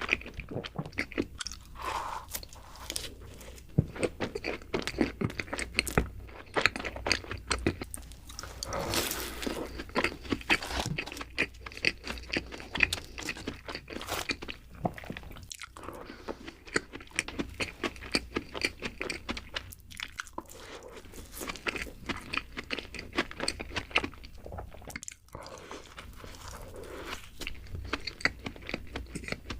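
A person biting into and chewing doughnuts, with many short, irregular crunchy clicks throughout.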